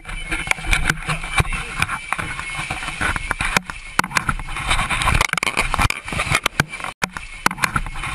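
Chaotic commotion inside a ditched airliner's cabin as it floods: a constant rushing noise with many sharp knocks and clatters and scattered voices, through distorted phone-camera audio.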